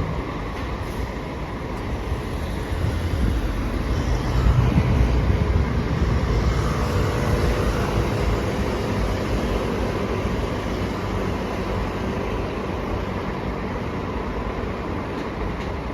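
Road traffic rumble from a heavy vehicle passing close by, swelling about four to five seconds in and then slowly fading.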